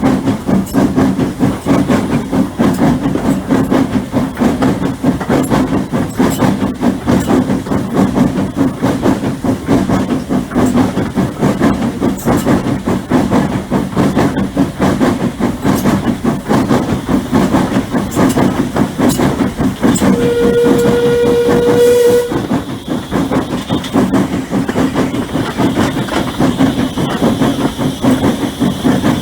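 Hunslet 0-6-0 saddle-tank steam locomotive and its train running, with a steady rumble and rapid clatter. About twenty seconds in, the steam whistle sounds one steady note for about two seconds, and a steam hiss follows.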